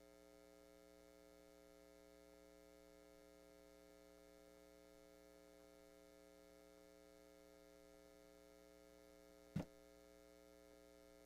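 Near silence: a faint, steady electrical hum, with one short click near the end.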